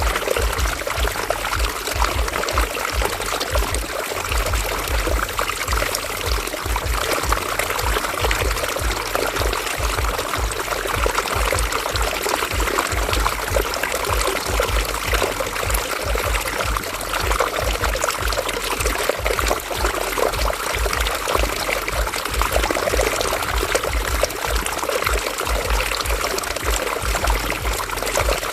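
River water flowing over rocks: a steady rushing and burbling with a low rumble underneath.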